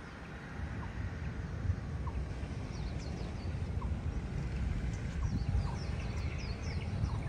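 Small birds chirping, a string of short, quick, high chirps starting about three seconds in, over a steady low rumble.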